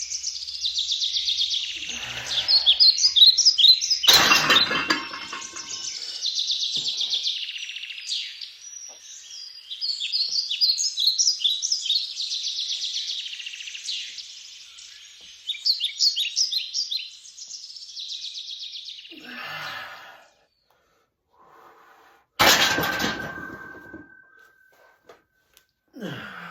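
Small birds chirping and twittering rapidly for about twenty seconds, then falling away. About three-quarters of the way through there is a sharp clank followed by a ringing tone that fades over about two seconds.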